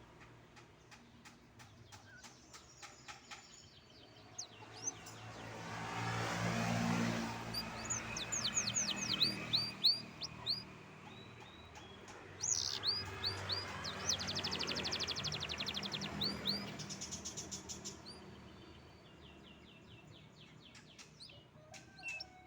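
Caged canary singing a long, varied song: runs of quick falling whistles and fast rattling trills, with pauses between phrases. A low rushing noise swells twice in the background.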